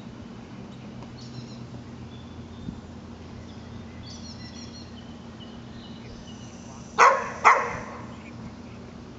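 A dog barks twice in quick succession about seven seconds in, over faint high bird chirps and a steady low hum.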